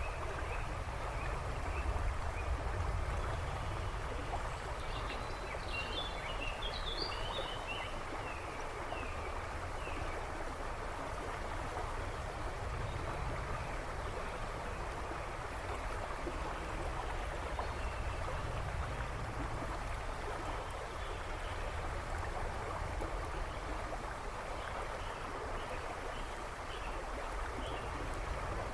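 A river rushing and splashing steadily over its bed. Birds chirp faintly in the background, most busily a few seconds in and again briefly near the end.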